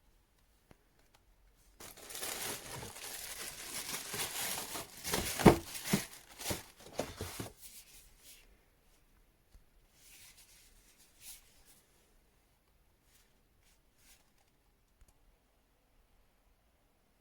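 Crinkling and tearing, like packaging being handled, for about five seconds, with a sharp louder snap in the middle, then a few faint rustles.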